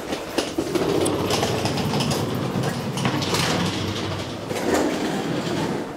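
Railway station ambience: a train running on the tracks below, a steady rumble of wheels on rails.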